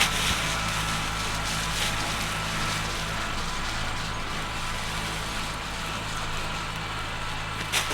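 Kubota tractor engine running steadily at an even speed.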